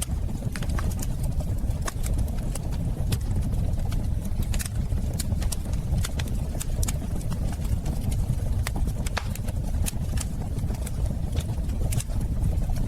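Fireplace wood fire crackling: a steady low rumble of flames with frequent irregular sharp pops and snaps.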